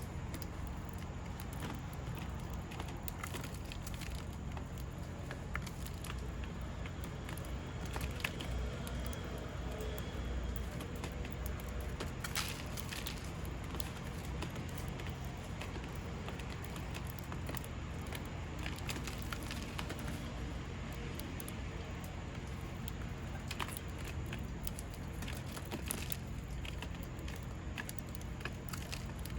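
Steady low background rumble, like distant traffic, with scattered small clicks and taps.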